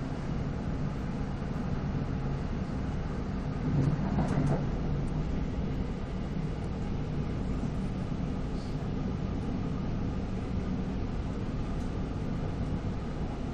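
Steady rumble of a moving commuter train heard from inside the passenger car, with a brief louder swell about four seconds in.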